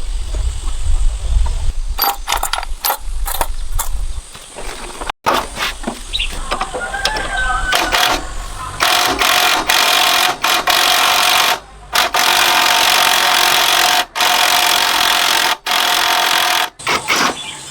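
Scattered metal knocks and clicks, then a power tool running with a steady whine, cut off abruptly several times.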